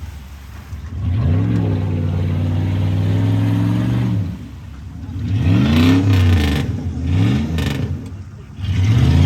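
Truck engine revving hard in repeated bursts: it climbs and holds for a few seconds, drops, then revs up and down twice more, with short dips toward idle between revs. It is the sound of a stock truck on 44-inch tires powering through a mud slough.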